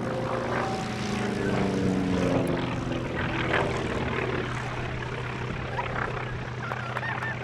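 Piston-engined WW2 fighter flying past. Its engine note slides in pitch as it passes, loudest about two seconds in, then settles into a steady drone.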